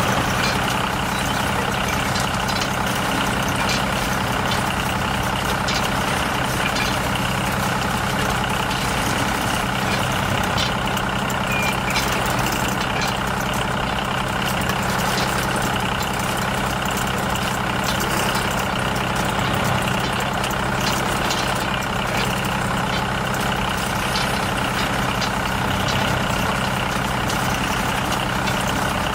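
Small motor of a miniature model construction machine running steadily, an even low hum with a few faint clicks.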